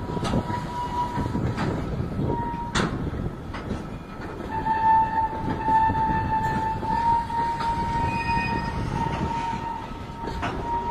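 Freight train of tank wagons rolling past, wheels rumbling and clicking over the rail joints. A high, steady wheel squeal comes and goes, then holds strongly from about halfway through.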